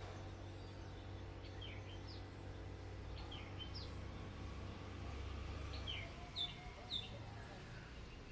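Oriental magpie-robin calling: three short phrases of quick, high notes, each note sliding down in pitch, spaced about two seconds apart, with the two loudest notes near the end. A steady low hum runs underneath and fades about six seconds in.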